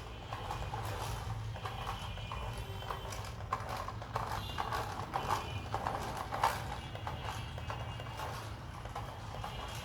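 Toy car being handled and played with: irregular plastic clicks and knocks, a little louder in the middle, over a low steady hum.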